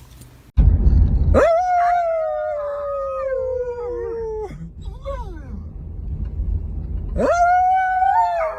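A dog howling: a long drawn-out howl that slowly falls in pitch, a short yelp-like call, then a second long howl near the end. It opens with a brief low rumble.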